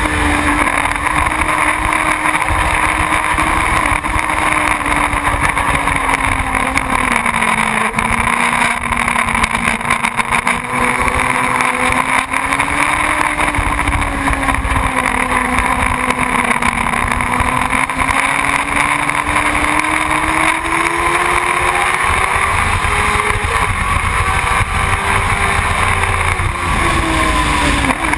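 Motorcycle engine running steadily while riding, its pitch slowly sinking a quarter of the way in and climbing again later, with wind rumbling on the microphone.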